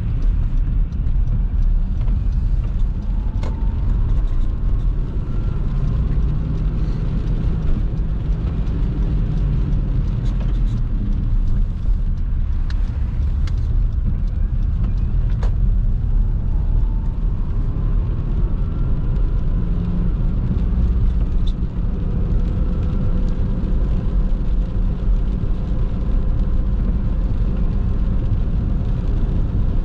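Car driving, heard inside the cabin: a steady low rumble of engine and tyres on the road, with a faint rising whine twice and a few sharp ticks.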